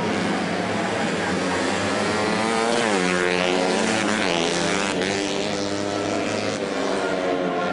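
Racing motorcycle engines at high revs as bikes pass; about three seconds in, the pitch drops sharply as one goes by, then climbs again as it accelerates away.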